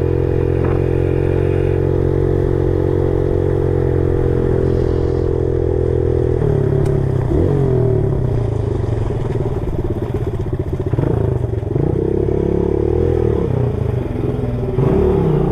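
Four-stroke pit bike engine running at a steady speed for about six seconds, then rising and falling in pitch as the throttle is worked.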